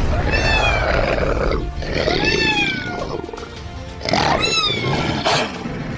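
A kitten mewing three times, each cry rising then falling in pitch, over background music.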